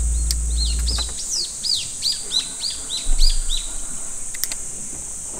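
A songbird singing a quick run of about ten high, down-slurred whistled notes, about four a second, starting about a second in, over a steady high hiss.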